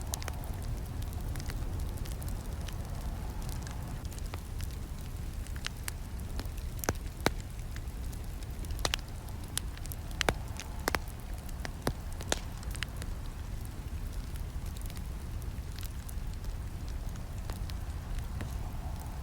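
Wood campfire burning: a steady low rumble of flames with scattered sharp crackles and pops from the burning wood, coming thickest in the middle.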